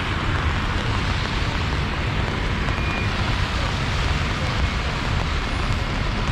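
Steady city street noise: a low traffic rumble under an even hiss of falling rain.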